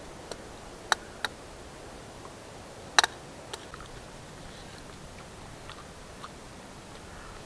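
A few sharp, irregular clicks and snaps over a steady low hiss, the loudest pair about three seconds in.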